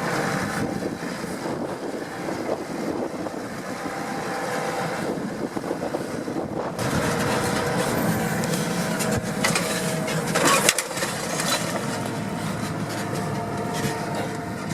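New Holland T7.235 tractor's six-cylinder diesel engine running steadily while it pulls a CLAAS Liner rotary rake, with a brief louder clatter about ten and a half seconds in.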